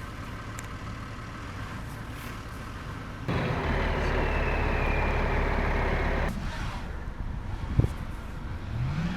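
Motor vehicle running on a street, with a steady low rumble that turns louder for about three seconds in the middle, starting and stopping abruptly, then a single sharp knock near the end.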